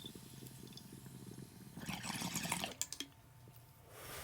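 Water bubbling in a bong as smoke is drawn through it, a fine low gurgle for a couple of seconds, then a louder hissing pull with a few clicks.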